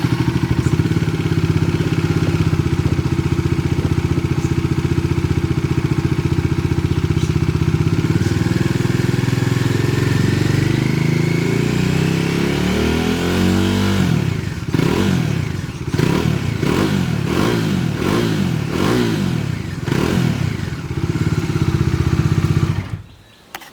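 Bajaj Dominar 400's single-cylinder engine and exhaust idling steadily, then revved up slowly over several seconds, then given a series of quick throttle blips. It settles back to a steady idle and stops near the end.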